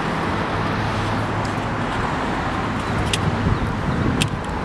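Steady background traffic noise: a constant rumble and hiss of passing road vehicles, with a few faint clicks.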